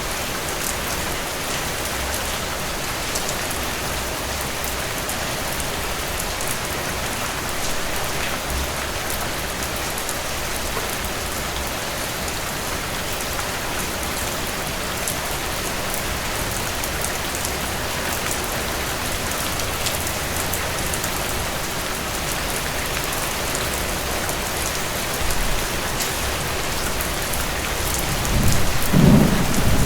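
Steady rain falling, with a low rumble of distant thunder building about two seconds before the end.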